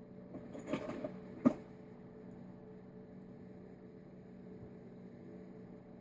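A few light rustles and clicks of small carburettor parts being handled on a bench, with one short, sharp click about a second and a half in, over a steady low hum.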